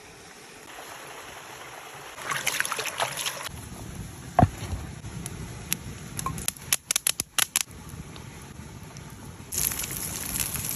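Food sizzling on a hot cooking stone, coming in two crackly bursts. A loud knock about four seconds in and a quick run of sharp clicks a few seconds later come from utensils striking the stone.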